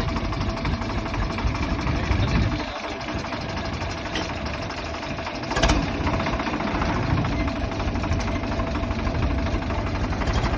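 Swaraj 855 tractor's three-cylinder diesel engine running steadily with even firing pulses, a little quieter for a few seconds mid-way, with one sharp knock about five and a half seconds in.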